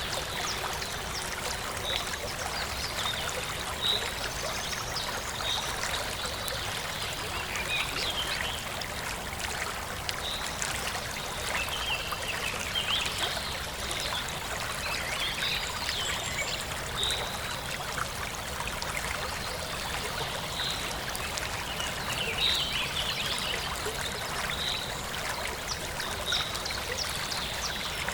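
Forest stream flowing steadily, with a bird repeating a short high chirp every second or two and other birds twittering.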